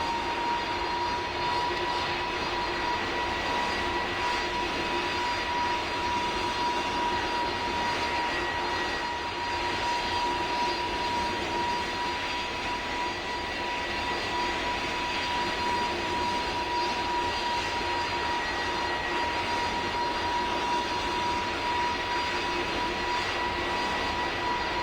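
Aircraft engine running steadily: a continuous roar with a steady high whine over it.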